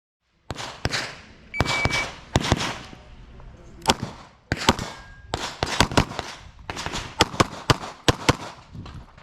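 Rapid handgun fire during an IPSC course of fire: a long string of loud shots, many in quick pairs, with brief pauses between groups and an echo after each shot. The sound starts abruptly about half a second in.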